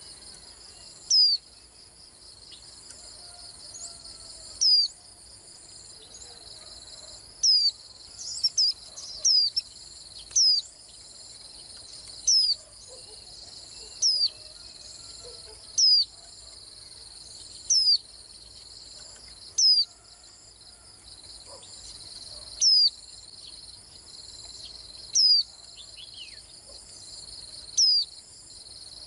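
White-eye giving short, high, sharp calls every two to three seconds, with a quicker cluster of notes about eight to ten seconds in, over a steady high insect chorus.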